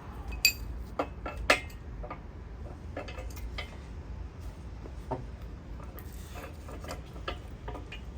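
Metal tools and engine parts clinking and knocking against each other in irregular, scattered strikes. The loudest, about half a second in, rings briefly like struck steel, and another sharp clank comes about a second and a half in.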